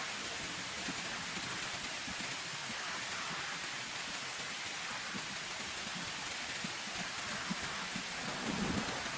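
Heavy rain falling steadily, an even hiss with scattered heavier drops pattering, a few of them landing together near the end.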